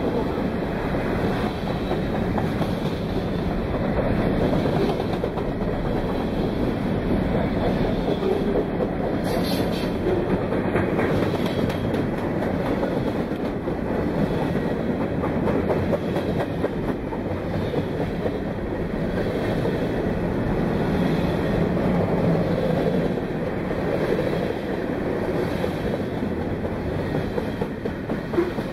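BNSF freight train cars rolling past at the crossing: a steady, loud rumble of steel wheels on rail, with clickety-clack over the rail joints.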